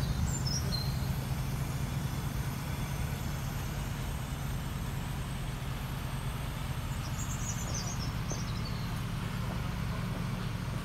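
Porsche Panamera Turbo's twin-turbo V8 idling with a steady low hum. Birds chirp briefly near the start and again about seven seconds in.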